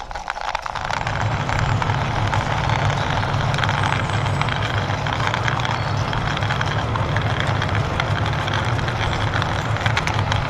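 A steady vehicle-like rumble with hiss, building up over the first second and then holding, as a toy military tanker truck is driven along by hand.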